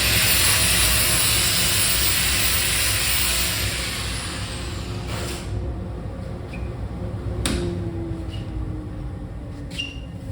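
Grinder grinding metal: a loud, hissing grind for the first three to four seconds, then quieter running. About seven and a half seconds in there is a click, and the motor's tone falls as it winds down.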